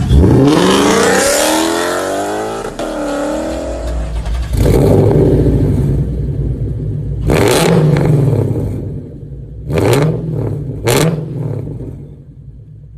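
Lexus IS F's 5.0-litre V8 revving. A hard pull climbs steadily in pitch over the first two seconds, then come several further bursts of throttle, the last two being short blips about a second apart. After that the engine dies away near the end.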